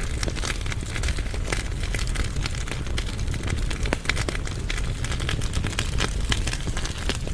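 Firewood burning in a fireplace firebox: frequent sharp crackles and snaps of the logs over a steady low rumble of the flames.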